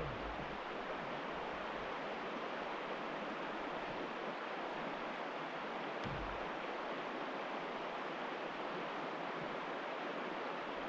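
Steady rushing of river water running over a shoal, an even hiss with no change, and one brief low bump about six seconds in.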